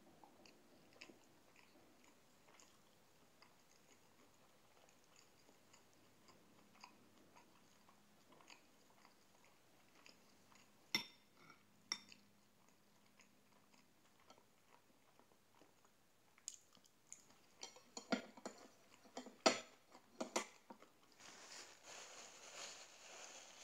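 Quiet chewing of food, with two sharp clinks of a fork on the glass bowl and plate about halfway through, then a quick run of louder clinks. Near the end, a steady soft rustle of a napkin being handled.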